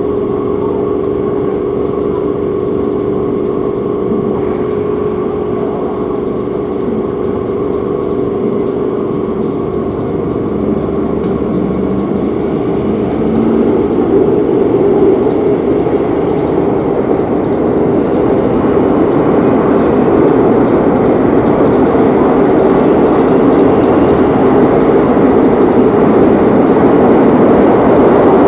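Metro series 8000 electric train running between stations, heard from inside the carriage: a steady rolling rumble with a faint motor hum. The noise grows louder about halfway through, as the train gathers speed.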